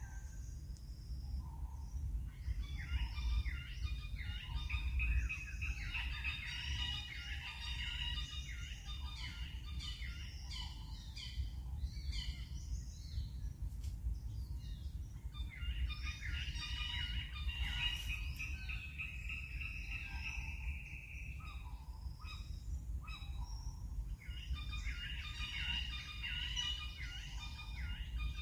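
Small birds chirping in dense bursts lasting several seconds, over a steady low rumble.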